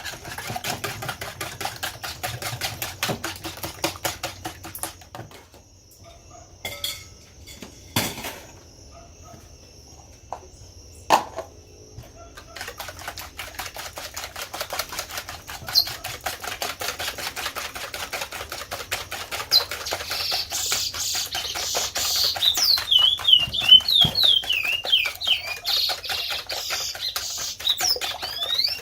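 Fork or whisk beating eggs and sugar in a bowl, a fast run of clicks against the bowl that pauses for several seconds with a few knocks, then starts again. A bird chirps repeatedly over the beating in the second half.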